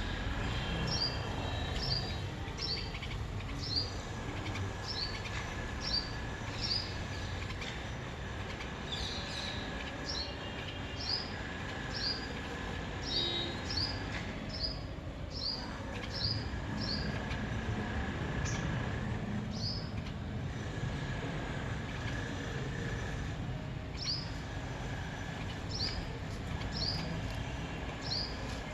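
A bird chirping over and over, single short high chirps about every half second with a few pauses, over a low steady background rumble and a faint steady tone.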